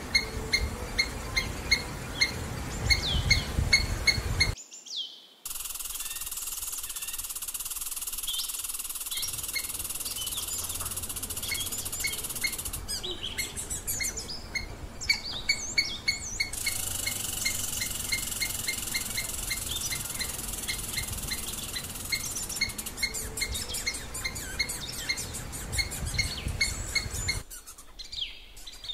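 Short high chirps repeated at an even pace, about three a second, among other chirping and birdsong over a steady outdoor hiss. The background changes abruptly several times.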